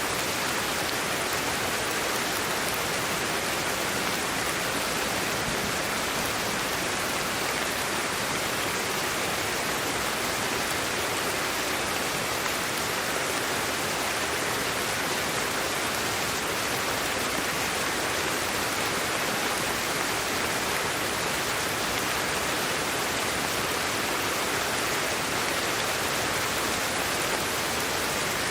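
Steady synthetic white-noise hiss, even and unchanging, with most of its weight in the upper middle range.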